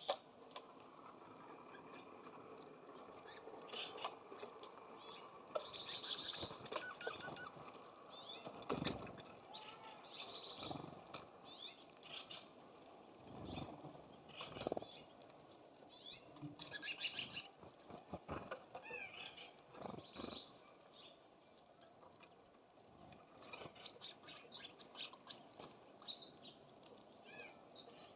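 Small songbirds at a feeder chirping and calling in many short, high notes throughout, with several soft thumps and wing flutters scattered among them.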